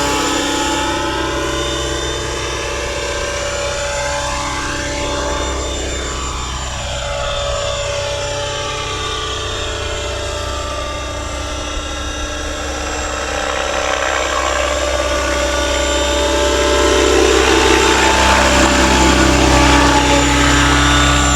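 Electric RC helicopter, Align T-Rex 550e mechanics stretched to 600 size in a scale Airwolf fuselage, in flight: a steady whine from the motor and main rotor. It grows fainter in the middle and louder again near the end as the helicopter moves about.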